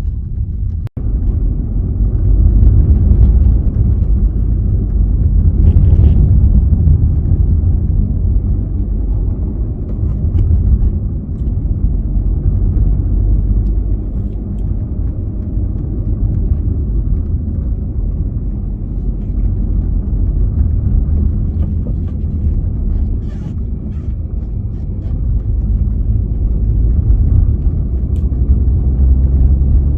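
A car being driven: a steady low rumble of engine and road noise. The sound cuts out for an instant about a second in.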